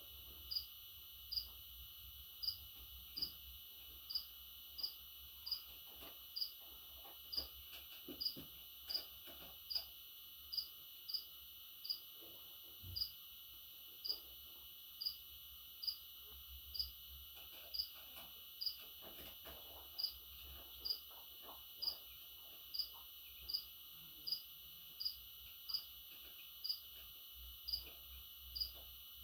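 Insect chirping: a short, high chirp repeated steadily about one to two times a second over a constant hiss.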